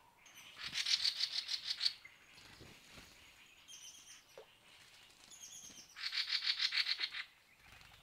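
A bird calling in two rapid, even trills about a second long each, the first about half a second in and the second about six seconds in, with a few short, higher chirps in between.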